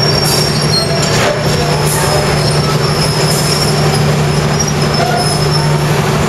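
Diesel passenger train standing at the platform with its engine running: a loud, steady low hum with faint high-pitched whining tones above it.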